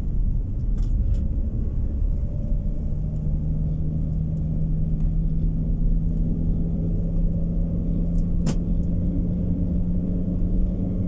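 Road and engine rumble of a moving car heard from inside the cabin. A steady low hum sets in about two seconds in, and there is a single sharp click about three-quarters of the way through.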